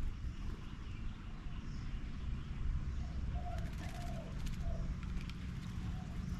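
A dove cooing: a short run of low, hooting coo notes about halfway through.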